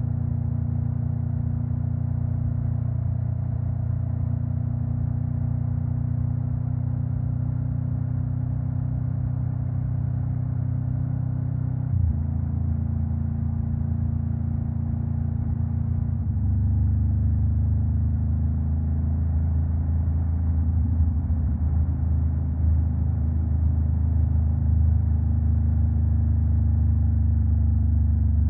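Honda Rebel 500 parallel-twin engine with a Vance and Hines exhaust running under way at a steady speed. Its note changes about twelve seconds in, then about four seconds later it drops lower and gets a little louder, holding there to the end.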